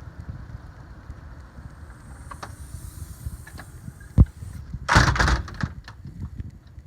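Wind buffeting the microphone in a steady rumble, with a sharp knock about four seconds in and a loud rustling scrape about a second later.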